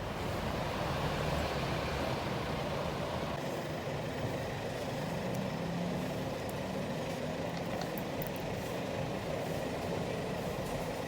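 Steady engine and road noise of a motor vehicle, running evenly without change.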